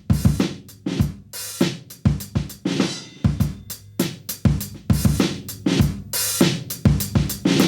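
Sampled acoustic drum kit from the SR Drums library playing a steady groove of kick drum, snare and hi-hat, with cymbal crashes ringing out about a second and a half in, at three seconds and again past six seconds.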